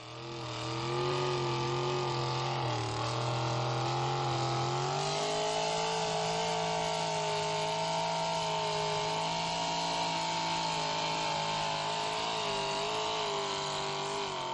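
Chevy 6.0 LS V8 held at high, steady revs, its pitch wavering slightly and stepping up about five seconds in, as the truck works through a mud hole.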